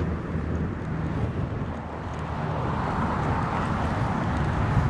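Wind rush and rattling road vibration picked up by a camera bungee-tied to a racing bike's handlebars as the bike rolls down a steep hill: a steady rough noise with no clear tone.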